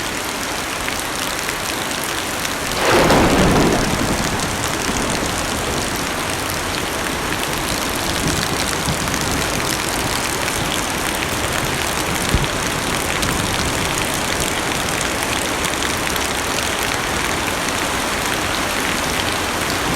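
Heavy rain drumming steadily on a car's roof and glass, heard from inside the cabin. A rumble of thunder swells and fades about three seconds in.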